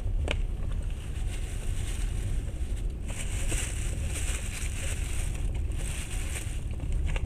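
Passenger train running, heard from inside the carriage: a steady low rumble of the wheels on the rails, with a hiss that grows stronger about three seconds in and a single click near the start.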